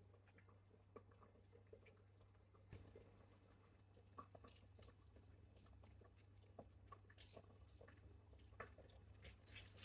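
Near silence: faint, scattered light clicks and taps over a low steady hum.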